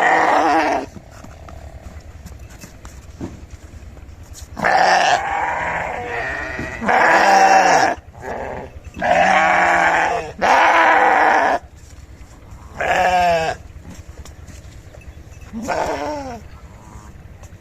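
Sheep bleating repeatedly: about eight loud, quavering calls, most about a second long, with short pauses between them and a fainter call near the end.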